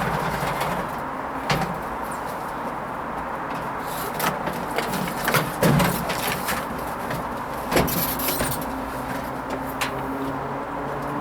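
Hoover Vision HVP16 washing machine partway through a gentle Silks 30 wash: a steady running noise with a low motor hum and scattered clicks and knocks from the turning drum. Near the end a motor whine sets in, rising slightly in pitch.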